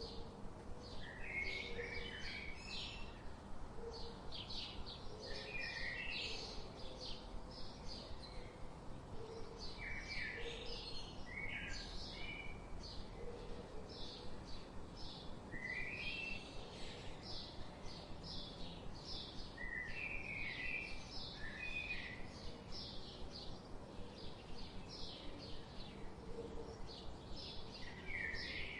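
Songbirds chirping continuously: rapid runs of short, high chirps, with a lower, more warbled phrase breaking in every four to five seconds over a steady low background rumble.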